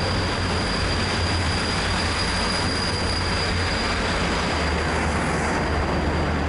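Overnight sleeper train pulling into the station, its carriages rolling slowly past close by with a steady rumble and a thin, steady high-pitched squeal over it.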